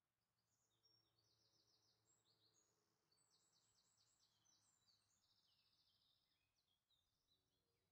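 Near silence, with very faint songbird chirps and rapid trills in the background.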